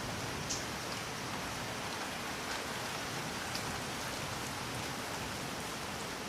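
Steady rain falling, with a few louder single drops landing close by about half a second, two and a half and three and a half seconds in.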